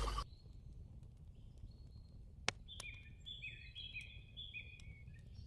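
Faint birdsong: a run of short, repeated chirps starting about three seconds in, over low background hiss, with a single sharp click just before it.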